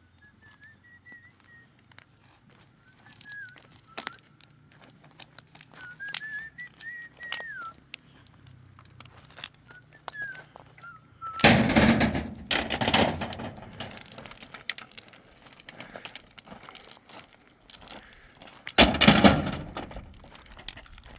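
A person whistling a wandering tune for about the first ten seconds. Then come two loud bursts of rough, rustling noise, the first about eleven seconds in and the second near the end.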